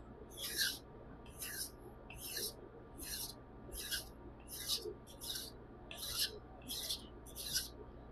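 A nakiri knife blade stroked back and forth on a 600-grit Majin whetstone, making about ten steady rasping strokes, roughly one every 0.7 seconds.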